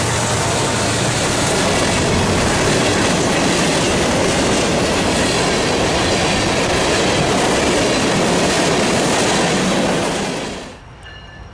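A Union Pacific freight train's cars roll past close by, with a steady loud clatter of wheels over the rails. The sound fades away sharply near the end.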